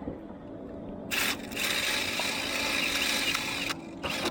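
A drill spinning a stiff poly chimney brush on extension poles, the bristles scraping creosote off the inside of a metal flex chimney liner. The drill starts about a second in, runs steadily, stops shortly before the end, then gives a brief burst.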